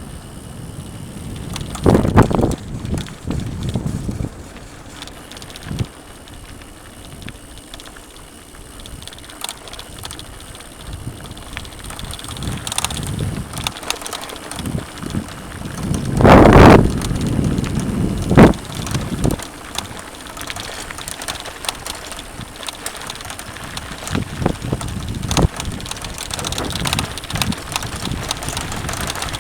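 Mountain bike riding over a dirt trail: a continuous rumble of tyres and rattling bike parts, with wind on the microphone. A few loud jolts come about 2 seconds in and twice more a little past halfway.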